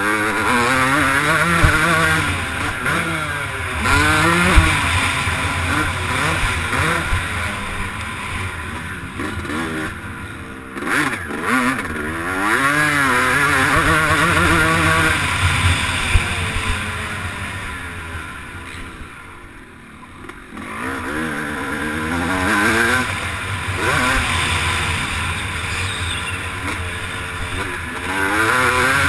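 Motocross bike engine revving hard and backing off again and again, its pitch climbing and dropping through gear changes, with a short lull off the throttle about two-thirds of the way through, heard from an onboard camera with wind noise.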